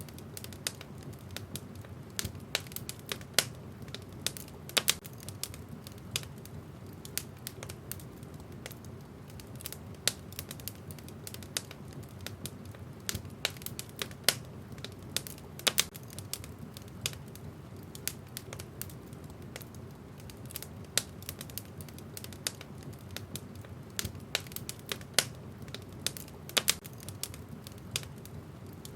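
Wood fire burning in a fireplace: irregular crackles and sharp pops from the burning logs over a steady low rush of flame.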